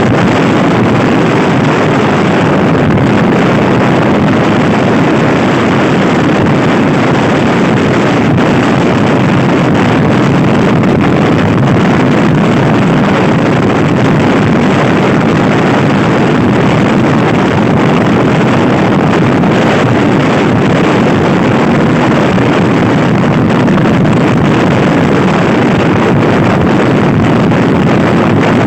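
Heavy, steady wind noise buffeting the microphone on a Honda Scoopy i scooter ridden at speed, with the scooter's single-cylinder engine running underneath.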